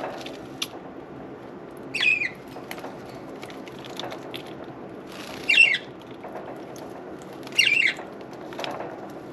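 Budgerigars calling: three short wavering chirps, about two, five and a half and seven and a half seconds in, over a steady background of light clicks and patter.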